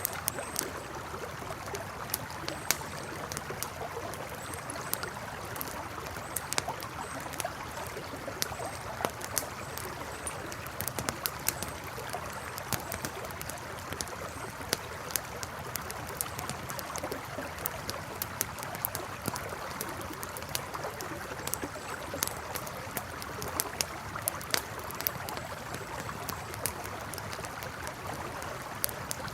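Campfire crackling with frequent sharp pops over the steady rush of a flowing river. Faint short high chirps come in now and then.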